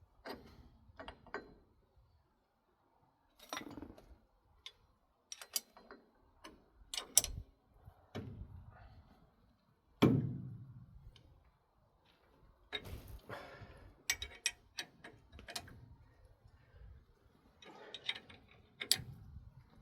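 Hand tools working on heavy steel axle parts: scattered metallic clicks, clinks and knocks at an uneven pace, with one heavy knock that rings on about ten seconds in.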